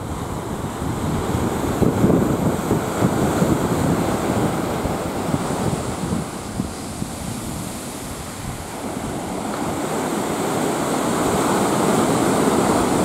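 Surf washing onto a sandy beach in steady swells, with wind buffeting the microphone.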